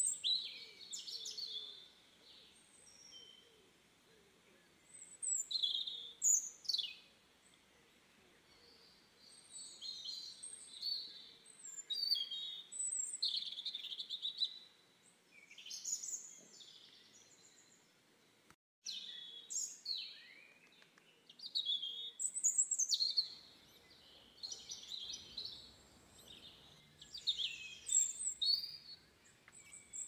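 Birds chirping and calling in repeated clusters of short, high-pitched chirps and whistles, with a brief break about nineteen seconds in.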